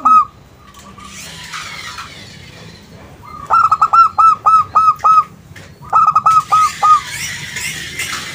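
Zebra dove (perkutut) song: rapid runs of short, hooked, ringing coo notes. There is one note at the start, a run of about seven in the middle, and a run of about five shortly after.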